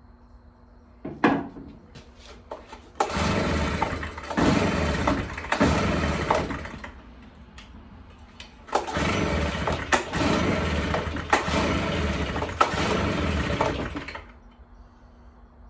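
Stihl BR340 leaf blower's two-stroke engine being pull-started and firing in short sputtering surges, about a second each, in two runs of pulls with a pause between them. It does not keep running: the blower has a hard-starting fault.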